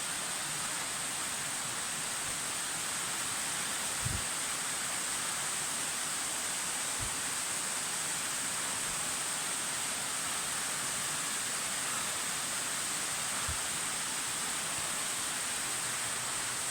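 Steady rush of a waterfall, an even noise of falling water with no breaks, with a few faint low bumps.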